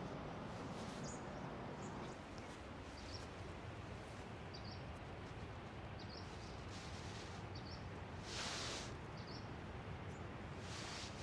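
Small birds chirping in the forest, short high chirps every second or so over a steady low outdoor background. A brief rustle comes about eight seconds in and another near the end.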